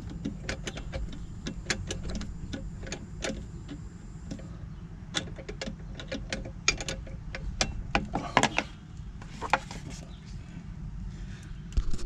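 Screwdriver tightening a worm-gear hose clamp over a rubber bypass cap: a run of irregular small clicks and ticks as the screw turns, over a steady low rumble.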